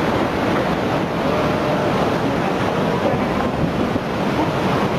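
Loud, steady rushing roar of churning water, with wind buffeting the microphone.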